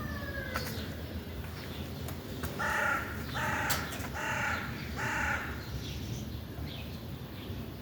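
A crow cawing four times in a row, harsh calls about two-thirds of a second apart, after the falling tail of a rooster's crow dies away in the first half-second. Small birds chirp faintly near the end.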